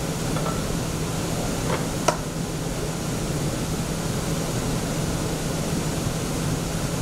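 Steady mechanical hum with a rushing air noise, and one small click about two seconds in.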